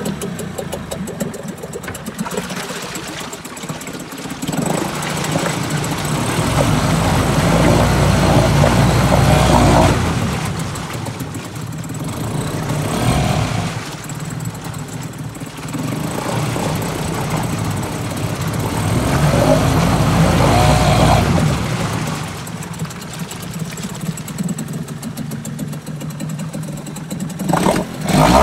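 Suzuki DT4 4 hp two-stroke outboard motor running on test. The throttle is opened and eased back twice, so the engine grows louder for a few seconds each time and then drops back toward idle.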